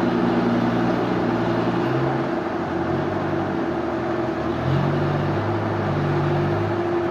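Sawmill machinery running: a steady hum over a noisy haze, with a lower engine note that drops and shifts in pitch partway through.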